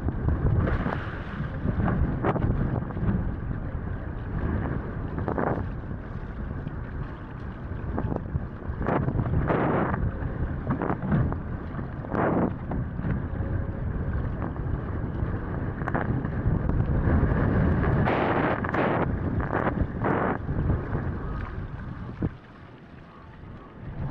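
Strong wind buffeting the microphone while wing foiling on the sea, with brief louder rushes of water and wind throughout. Near the end it drops sharply quieter for about two seconds.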